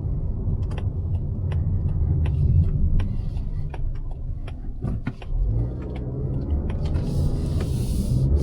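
Mazda CX-5's naturally aspirated 2.5-litre four-cylinder engine running with a steady low rumble, its note shifting about halfway through, with scattered sharp clicks in the first half.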